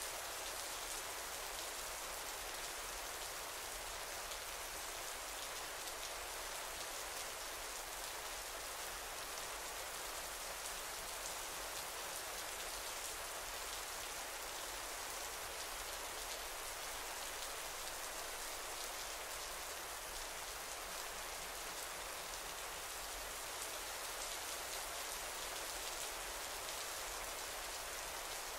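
Steady rain falling on a garden: an even, unbroken hiss of many small drops that neither builds nor eases.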